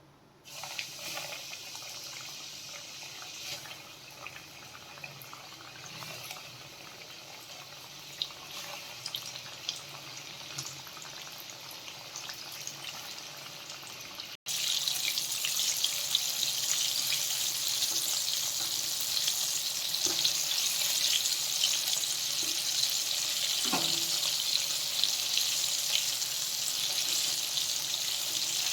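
Marinated chicken pieces deep-frying in hot oil: a steady sizzle with scattered crackling pops. It gets louder after a cut about halfway through.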